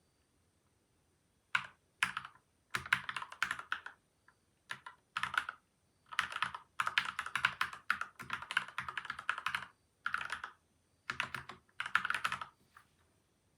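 Typing on a PCL87 mechanical keyboard with lubed switches and stabilizers and taped, foam-damped case: quick runs of keystrokes in spurts with short pauses, starting about a second and a half in.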